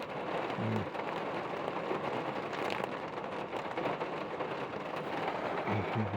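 Heavy rain falling steadily in a thunderstorm, an even hiss with no let-up.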